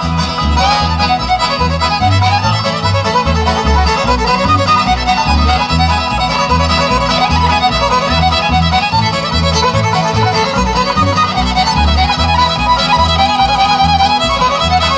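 Bluegrass band playing an instrumental break between verses, a fiddle carrying the melody over steady bass notes about twice a second.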